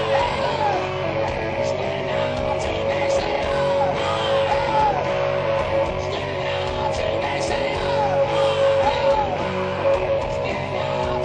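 Hard rock band playing live: electric guitar holds one steady note while a lead line slides up and down above it about once a second, over drums with regular cymbal hits.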